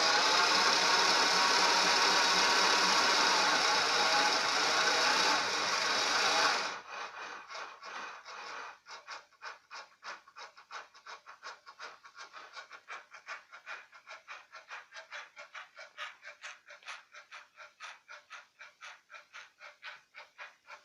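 Homemade CNC machine's X-axis stepper motor drive running: a loud steady whine for about the first seven seconds that cuts off suddenly, then a quieter regular pulsing at about three to four pulses a second as the axis moves in short steps.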